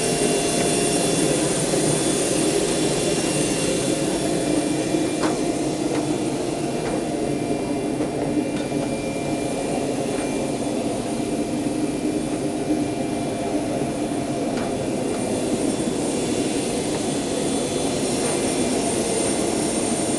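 Jet aircraft turbine running steadily: a constant rumble under a high whine made of several fixed tones, with a few faint clicks here and there.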